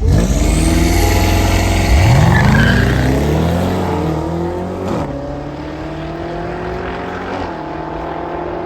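A car engine revving hard and accelerating away at full throttle, its pitch climbing and dropping at gear changes about five and seven seconds in, growing fainter as it pulls away down the drag strip.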